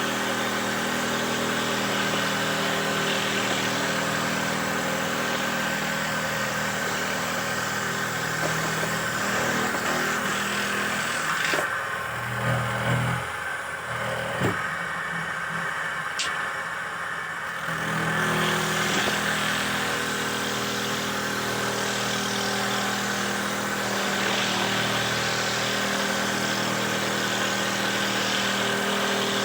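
Motor of a handmade wooden dowel-making machine running steadily with a constant hum. For several seconds around the middle its sound changes, thinning in the highs before returning to the steady running.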